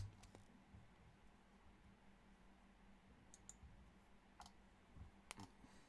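Near silence with a few faint, scattered clicks, the sharpest right at the start.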